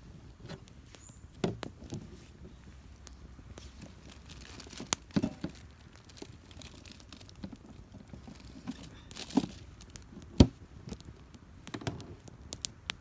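Irregular snaps, crackles and rustling of burning or handled kindling and twigs, with one sharp crack about ten seconds in.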